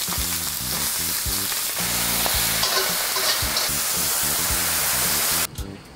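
Pork neck and kimchi sizzling loudly on a hot cast-iron cauldron-lid griddle, with background music with a low, repeating bass line underneath. The sizzling cuts off suddenly about five and a half seconds in, leaving only the music.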